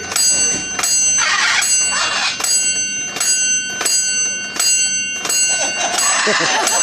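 A small bell rung over and over by a parrot giving its counting answer, a dozen or so ringing strikes, far more than the seven asked for. Audience voices and laughter rise near the end.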